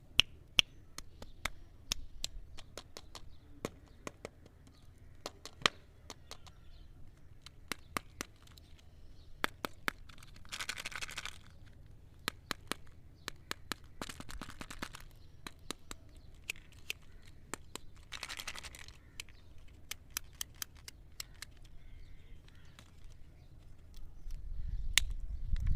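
Candy and chocolate-egg wrappers being handled and unwrapped: many sharp crinkles and clicks, with three longer stretches of crackling rustle in the middle and a low handling rumble near the end.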